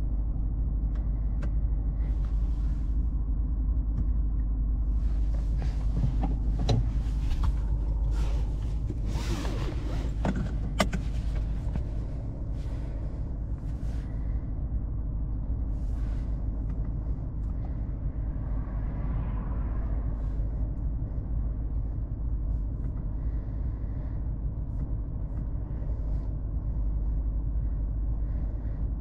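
Lexus RC F Track Edition's 5.0-litre V8 running steadily at low revs, heard from inside the cabin as a low, even rumble. A few clicks and rustles come in around the middle.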